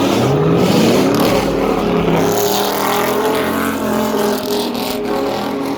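Car engine revving hard: the pitch climbs over about the first second, then holds at high revs.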